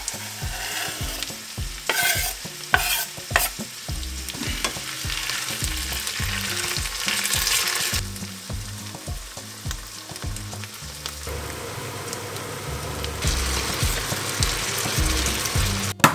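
Diced potatoes and onion sizzling in hot oil in a frying pan, with a few sharp knocks about two to three seconds in.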